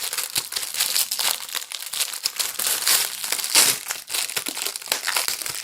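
Dense, continuous crinkling and rustling of packaging being handled.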